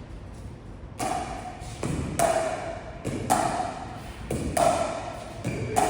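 Pickleball paddles hitting a plastic pickleball back and forth in a rally, a sharp ringing pock about every second, with lighter knocks between the hits.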